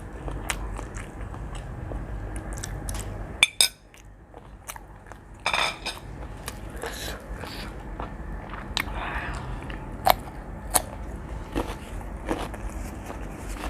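Close-up eating sounds of a person eating spicy seafood instant noodles: chewing and biting, with many sharp clicks and wet smacks, a louder burst about five and a half seconds in and two sharp clicks near ten and eleven seconds.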